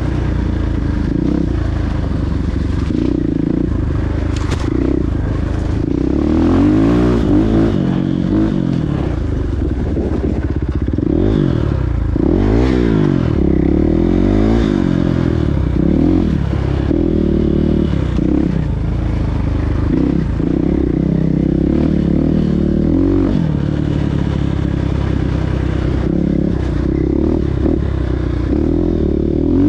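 Several motocross bikes running at once, their engines revving and easing off, with pitch rising and falling as they pass. The busiest, overlapping passes come about midway.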